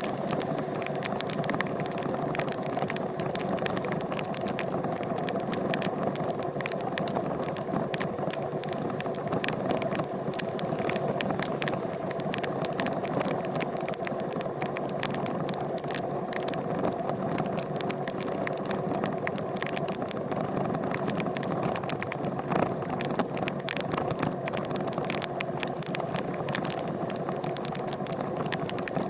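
Motorcycle engine running at a steady pitch, with a constant rattle and many small sharp clicks over it.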